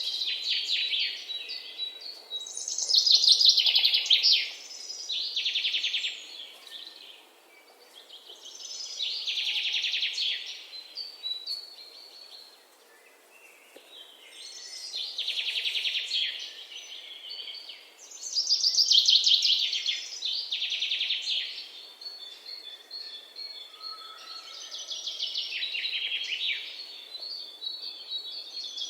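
Songbird singing: phrases of rapid trilling notes, each two to three seconds long, repeated after pauses of a few seconds.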